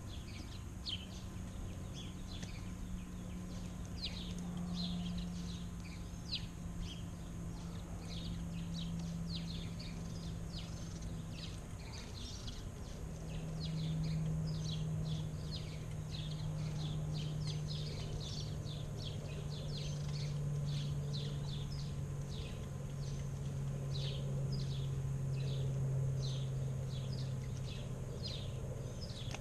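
Several backyard birds chirping busily, with many short, quick chirps all through. Under them a low steady drone that slowly drops in pitch.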